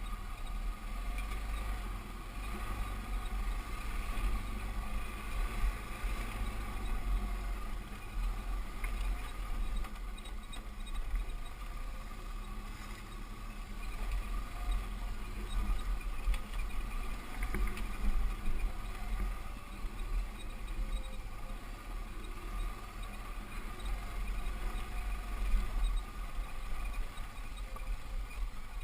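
Dirt bike engine running steadily during an off-road ride, with heavy wind rumble on the microphone.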